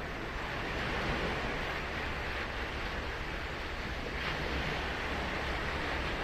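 Ocean surf washing steadily on the beach, with a wave breaking in a short surge about four seconds in.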